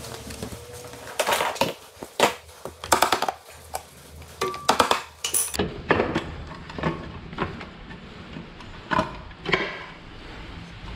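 Scattered clinks and knocks of tools and small metal and plastic parts being handled while a Yamaha RSZ scooter's CVT transmission is taken apart. There is one short ringing clink about four and a half seconds in.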